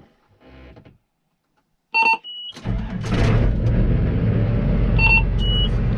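Farm tractor engine starts running steadily about two and a half seconds in, after a near-silent pause. Two short electronic beeps sound about three seconds apart.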